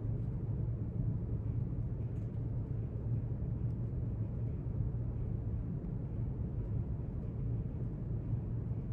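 Steady low rumble of a library's room ambience, even throughout, with a couple of faint ticks about two and four seconds in.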